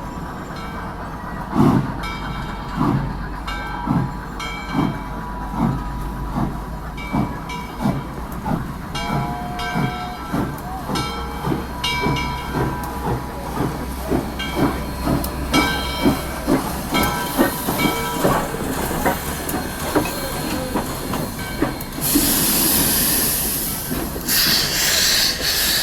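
Steam locomotive chuffing as it pulls away, its exhaust beats speeding up from slow, spaced puffs to about two a second. Near the end come two loud bursts of steam hiss.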